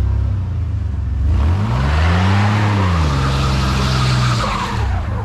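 Pickup truck doing a two-wheel peel burnout. The engine revs up from idle and the spinning tires squeal and hiss against the pavement for about three and a half seconds. The revs settle back partway through, and the squeal dies away near the end.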